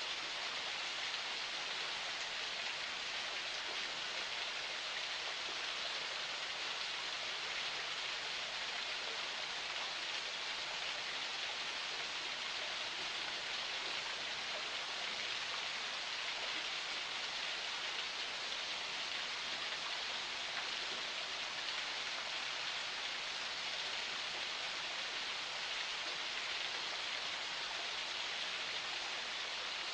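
Water of a forest spring flowing steadily, an even splashing hiss with no changes.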